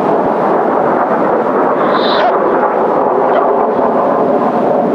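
A steady, loud rumbling roar of distant Kawasaki T-4 jet engines mixed with strong wind on the microphone and breaking surf.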